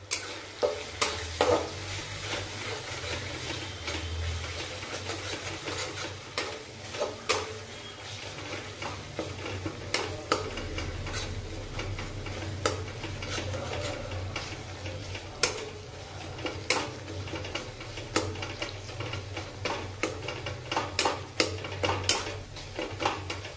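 Onion-tomato masala with dry spices sizzling in oil in a steel kadhai, being roasted while a steel spatula stirs and scrapes it, with frequent irregular sharp clicks of the spatula against the pan.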